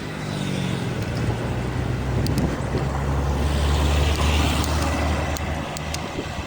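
A motor vehicle's engine passing close by: a low, steady hum that grows louder, is loudest about four to five seconds in, then fades away.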